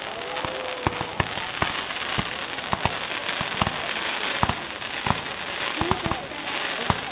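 Set-piece fireworks burning: a steady hiss with many irregular sharp pops and crackles.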